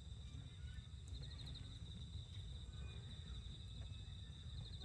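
Insects trilling steadily at a high pitch over a constant low rumble, with a few faint clicks.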